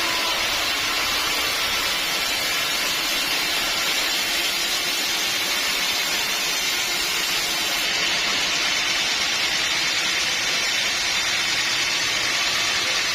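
Sawmill saw running with a steady, even hissing noise. The highest treble drops away about eight seconds in.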